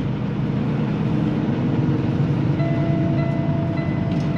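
Semi-truck engine idling with a steady low rumble; about two and a half seconds in, a steady electronic warning tone starts up and holds: the seatbelt-unbuckled alarm.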